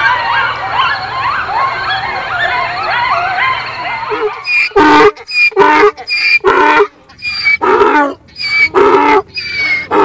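Wild boar squealing: many high, wavering squeals over one another. About four and a half seconds in, this gives way to a different animal making short, loud honking calls, about two a second.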